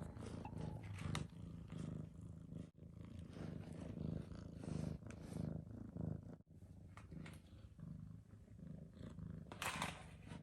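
Siamese cat purring in a steady run of low pulses, about one to two a second, with a brief scratchy noise near the end.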